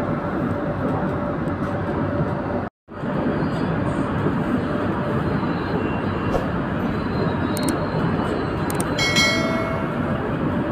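KTM Komuter electric train running between stations: a steady rumble and hiss of the moving carriage. The sound cuts out for a split second about three seconds in, then resumes unchanged.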